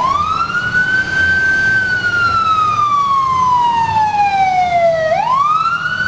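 Fire engine's siren wailing. The pitch sweeps quickly up, then falls slowly over several seconds, and sweeps up again about five seconds in.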